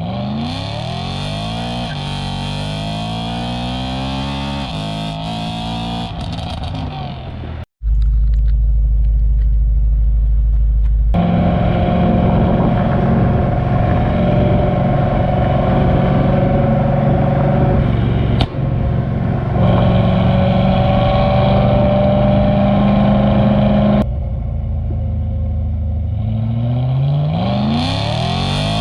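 BMW E92 M3's V8 engine under hard acceleration, its pitch climbing and dropping back at each upshift, with the car running on 91-octane fuel before its E85 tune. Midway it settles into a long, steady high-rev drone, and another rising pull comes near the end.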